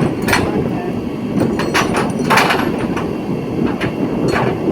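Truck engine running steadily with the PTO engaged, with several sharp metallic knocks and clanks over it.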